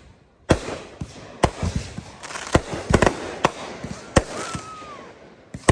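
Fireworks display of aerial shells and 500-gram cakes going off: a string of sharp bangs, roughly one a second with a quick pair near the middle, with crackling and echo between them and a brief thin whistle near the end.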